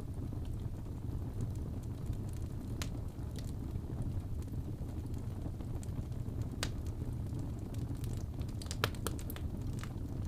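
Fire in a fireplace crackling: a steady low rumble with scattered sharp pops, a quick run of them near the end.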